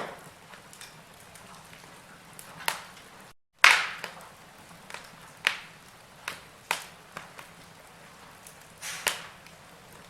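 Burning logs crackling in a fireplace: irregular sharp pops and snaps of varying loudness over a soft steady hiss. The sound drops out completely for a moment about three and a half seconds in, followed by one of the loudest pops.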